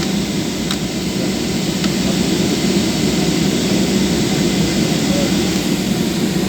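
Steady jet airliner cabin noise, engines and airflow running evenly, as the plane taxis after landing. A couple of faint ticks sound in the first two seconds.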